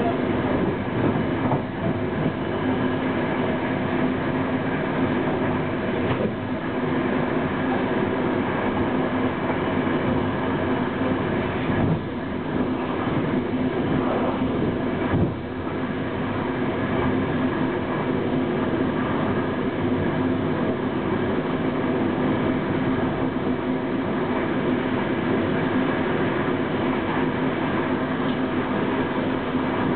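Electric passenger train running at speed, heard from inside at the front window: a steady rumble of wheels on rail with a low steady hum, broken by a few sharp clicks.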